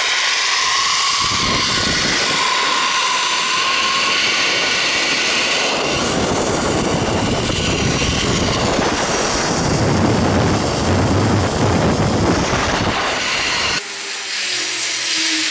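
Zip-line trolley running fast along the steel cable with a faint high whine, and wind rushing over the microphone. The rush drops off suddenly near the end.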